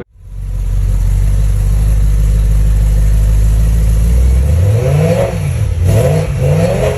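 BMW E92 M3's V8 with an M Performance exhaust idling steadily, then revved in a few quick throttle blips, the pitch rising and falling each time, in the second half.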